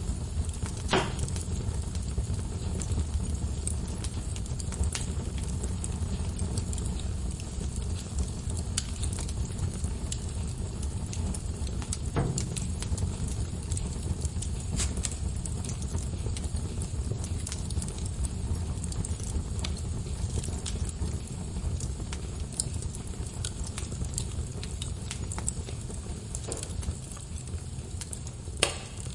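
Logs burning in a fireplace: irregular crackling and small pops over a steady low rumble of the flames, with a few sharper pops about a second in, around the middle, and just before the end.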